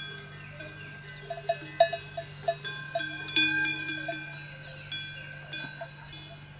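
Bells ringing at several pitches, struck again and again and left to ring on, with most strikes falling in the first half, over a steady low hum.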